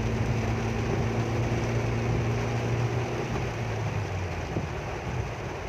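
A vehicle engine runs with a steady low hum over an even wash of heavy rain and road noise. The engine hum fades away about three and a half seconds in, leaving the rain and road noise.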